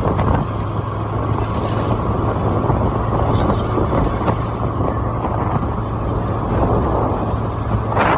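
Wind buffeting the microphone on a moving motorcycle, over the engine's steady low drone.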